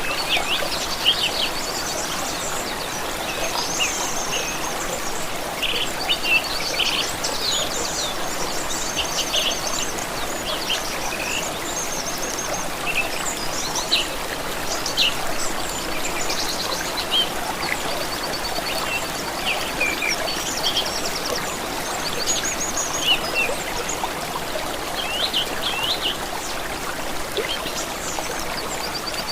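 A steady stream of running water, with many small birds chirping and trilling over it throughout.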